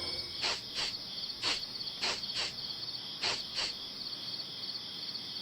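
Crickets chirping steadily in a high, pulsing trill, with about seven short clicks or rustles, several in pairs, during the first four seconds.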